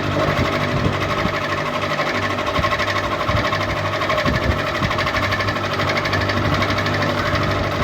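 Electric ceiling fan running at speed: a steady motor hum under a fast, even rattling pulse.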